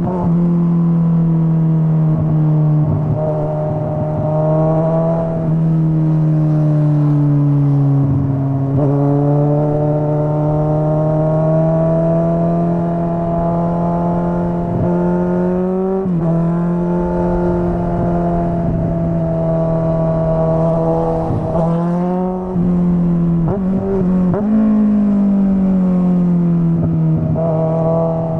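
Straight-piped Kawasaki Z900 inline-four engine running loud and steady while riding. Its pitch dips, rises and steps several times as the throttle and gears change.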